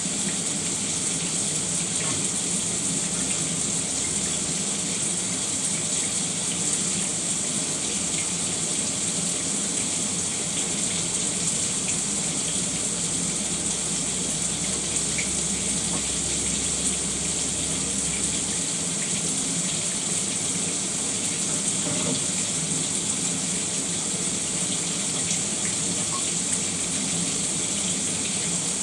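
Shower running: a steady hiss of falling water, with faint scattered spatters.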